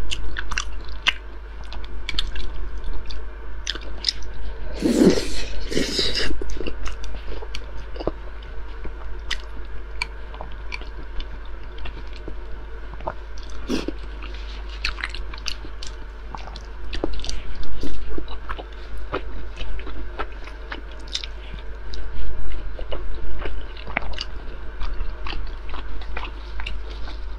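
Close-miked chewing and mouth sounds of a person eating braised pork belly (Dongpo pork), with many short clicks and a louder burst about five seconds in.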